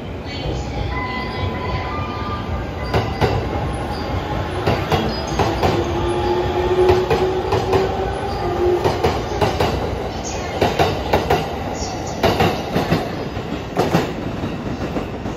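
JR East E231-series commuter electric train running through the station without stopping. Its wheels clack over the rail joints in quick groups as each bogie passes, over a steady rumble, with a whine held for a few seconds around the middle.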